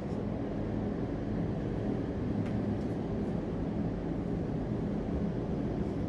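Steady low background rumble, with a few faint ticks about halfway through.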